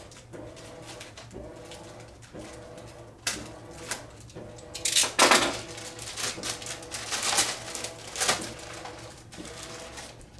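Packing tape and plastic wrapping being pulled off and rustled by hand, in several short bursts, the loudest about halfway through. Behind it there is a steady low hum and a faint low tone that repeats about once a second.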